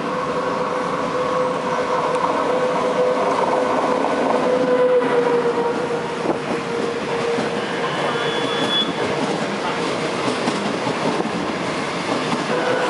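SS8 electric locomotive running through the station at speed with a steady whine, followed by its passenger coaches rushing past with wheels clicking over the rail joints.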